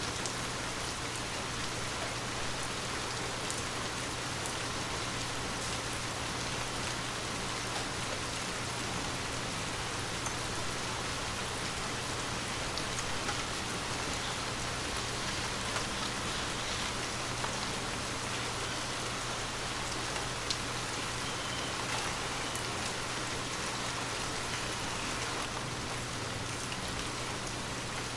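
Steady rain falling on a window, an even wash of rain with scattered single drops ticking against the glass.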